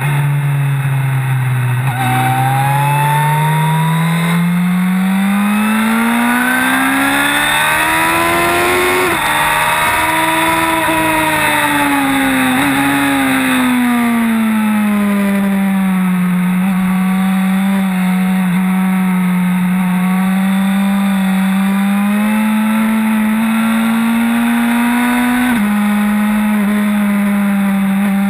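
Sport motorcycle engine at speed, heard from onboard with wind rush. The revs climb for several seconds, ease off, rise again, then hold fairly steady. Near the end the pitch drops suddenly at a gear change.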